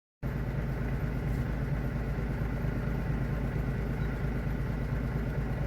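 A vehicle engine running steadily with a low, even hum. It cuts in abruptly just after the start.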